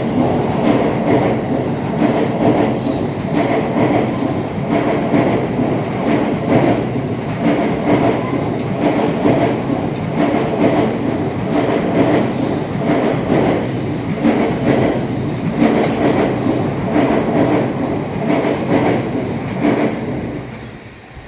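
A train passing close by, its wheels clacking in a steady rhythm over the rail joints, fading away near the end.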